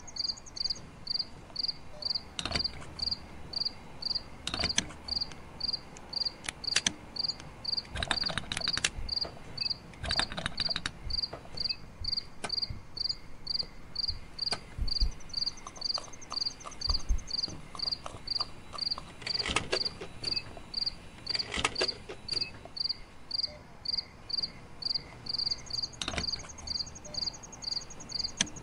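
Cricket chirping steadily, about two high chirps a second, with a faster trill joining at times. Scattered light clicks and knocks from the toy tractor and plastic plants being handled.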